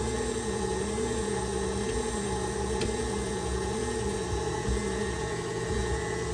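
KitchenAid stand mixer motor driving the Spiralizer Plus attachment with its peeler blade, turning and peeling an uneven potato. The motor runs steadily under load, its hum wobbling up and down in pitch about once a second.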